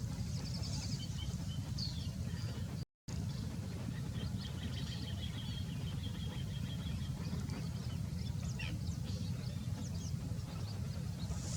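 Small birds chirping, with short high calls and a longer trill from about four seconds in, over a steady low rumble. The sound drops out completely for a moment about three seconds in.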